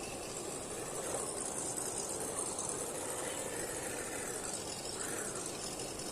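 Electric motor and geared drivetrain of an RGT EX86010-CJ 1:10 RC crawler running steadily.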